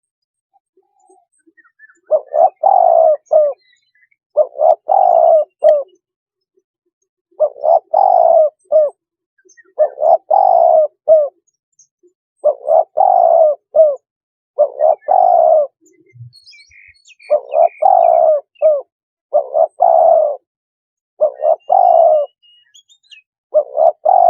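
Spotted dove cooing: a loud multi-note coo phrase repeated about every two and a half seconds, about ten times. It is a lure call for calling in wild spotted doves.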